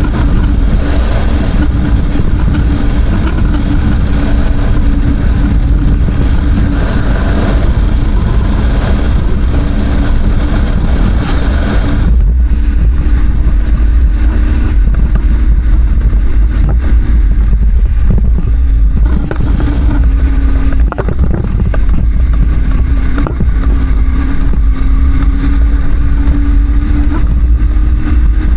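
Adventure motorcycle engine running hard under throttle on a dirt road, its note rising and falling with the throttle, over heavy wind rumble on the microphone. About twelve seconds in, the hiss above the engine drops away abruptly.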